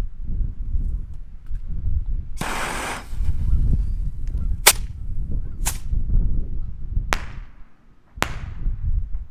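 A small firework going off: a short hiss, then four sharp bangs spaced about a second apart, with wind rumbling on the microphone.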